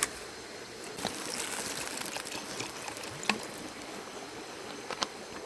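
Cooking oil trickling as it is poured off a frying pan, swelling for a couple of seconds, with a few sharp clicks of the pan and utensils.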